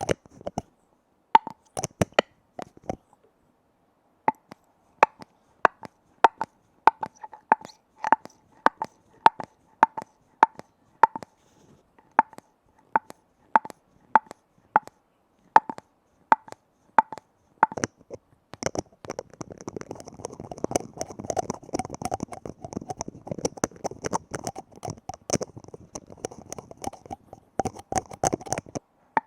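Fingers tapping on a container lid: separate taps, one or two a second, each with a short ringing note. About two-thirds of the way in, this turns into fast, dense tapping and scratching on the lid.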